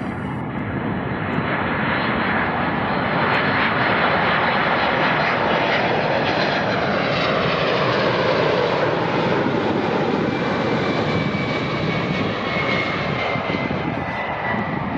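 Jet airliner passing close by: a rush of engine noise that swells, peaks about four to eight seconds in and then eases off, with a whine that falls in pitch as the aircraft goes past.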